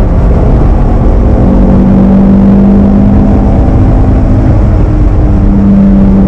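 Cabin sound of a Toyota MR2 with its T-tops off: its swapped Honda K-series engine running at a steady cruise, the engine note stepping up a little about a second and a half in, over wind and road rumble.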